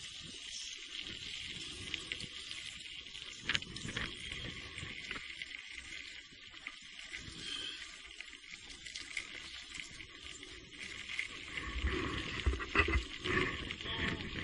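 Steady hiss of rain and a wet trail under a mountain e-bike, with scattered knocks and clicks from the bike. Near the end comes a stretch of louder low rumbling and knocks.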